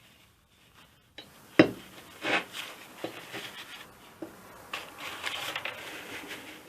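Air compressor parts being handled on a workbench: several knocks and clicks, the loudest about one and a half seconds in, then a stretch of rubbing as oil is wiped off the metal surfaces before sealing.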